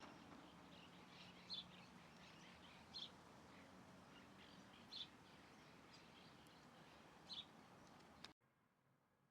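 Faint bird chirps: short high calls every second or two over a steady hiss, cutting off abruptly near the end.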